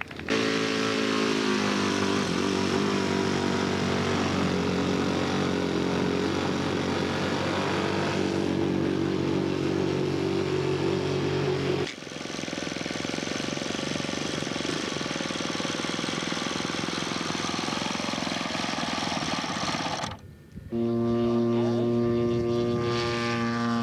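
Radio-controlled scale model airplane engine running at a steady pitch. The sound changes abruptly about halfway through to a rougher, noisier engine sound, drops out briefly near the end, then returns as a clear steady engine tone.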